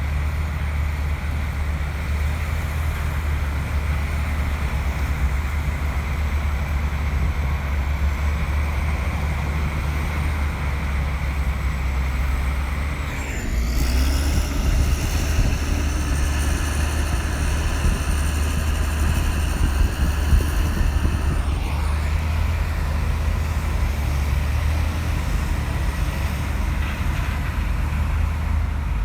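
Bulldozer's diesel engine running steadily with a deep drone. About halfway through, a higher wavering whine joins it for roughly eight seconds, then drops away while the engine keeps running.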